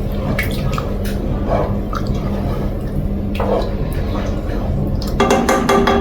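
A spoon stirring a thin, watery sauce in a pot: liquid sloshing with occasional light clinks. Near the end comes a brief burst of clattering against the pot. A steady low hum runs underneath.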